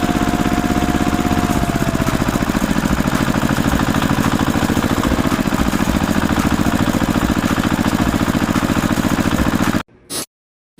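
Small engine of a DIY mini tractor running steadily with a fast, even chug. It eases down slightly about two seconds in, then cuts off abruptly near the end.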